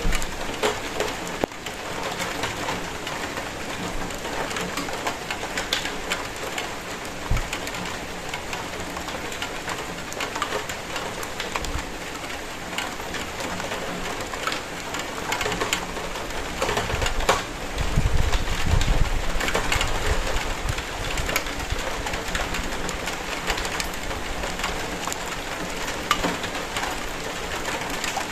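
Steady rain falling, with many separate drops striking surfaces. A deep rumble swells about eighteen seconds in and fades a couple of seconds later.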